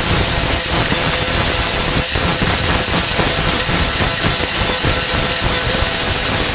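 Angle grinder with a Type 27 grinding disc grinding down flux-core welds on a steel tailgate patch panel: a steady high whine over rough grinding noise.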